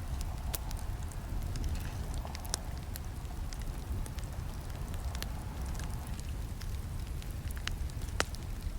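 Campfire burning with a steady low rumble of flames and scattered sharp crackles and pops from the wood, the loudest snap near the end.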